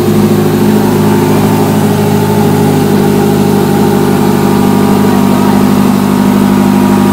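Porsche 918 Spyder's 4.6-litre V8 idling steadily just after being started, loud and even.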